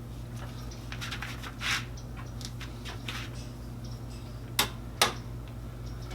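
Scattered clicks, scrapes and metal clinks of hand work on exhaust parts, with two sharp clinks close together near the end, over a steady low hum.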